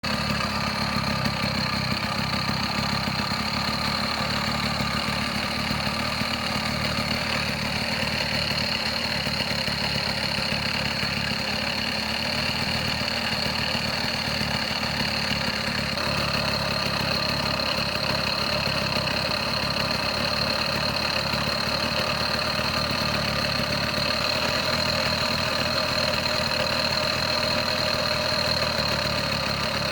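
Small 50 cc two-stroke engine running steadily at idle, its tone shifting slightly about halfway through.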